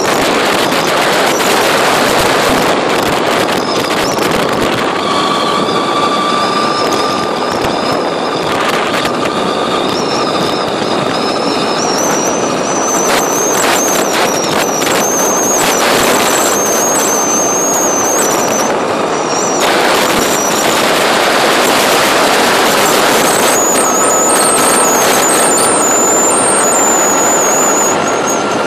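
Yamaha Nouvo scooter's final-drive reduction gearbox whistling while riding: a thin high whine that fades in and out and creeps slowly up in pitch over heavy wind noise on the microphone. It is the sign of a fault in the reduction gear, heard at speeds above about 40 km/h.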